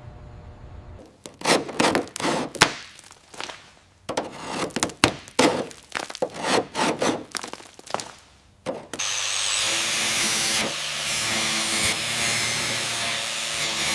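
A run of irregular hand-tool strokes, scraping or scrubbing, then from about nine seconds in a steady power tool running.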